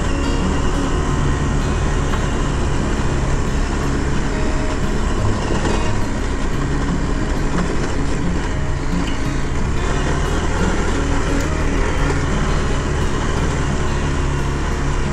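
Adventure motorcycle engine running at a fairly steady pace while riding up a rocky dirt two-track, with wind and road noise mixed in.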